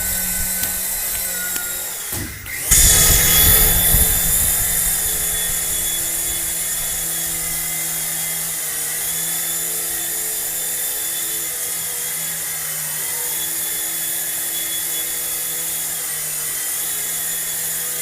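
Small electric motor of a remote-control toy running with a steady whine, cutting out briefly about two seconds in and then starting again.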